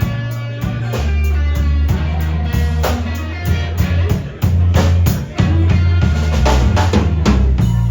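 Live blues band playing an instrumental passage between vocal lines: guitar lines over a steady bass and drum kit.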